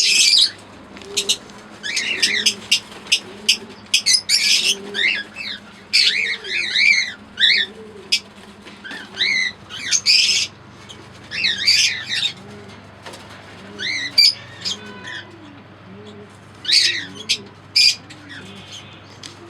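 Lovebirds chirping in short, shrill bursts, some of them rapid warbling runs, over a soft low coo repeated about once a second.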